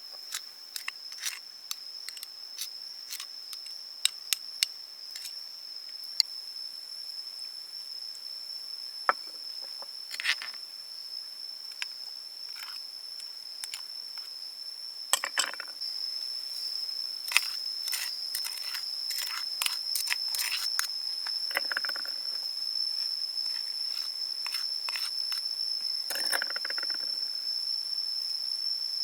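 A steady high-pitched insect drone, with many scattered sharp clicks and knocks and a few short scraping sounds.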